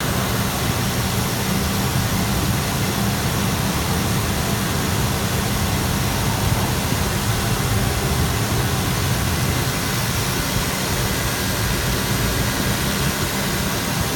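A 2000 GMC Yukon's 5.7L Vortec small-block V8 running at a steady, even speed, with no misses or knocks; the seller calls it an excellent runner.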